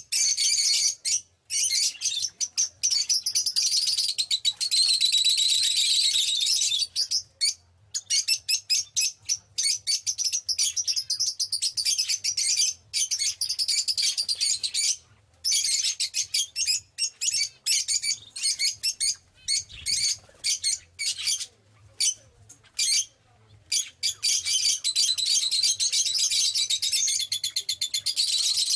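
Birds chirping: fast, high-pitched runs of chirps broken by short pauses.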